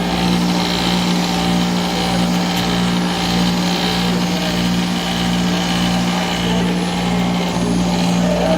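Cessna aircraft generator spun by an electric drive motor on a test stand, running with a steady hum and a strong constant low tone.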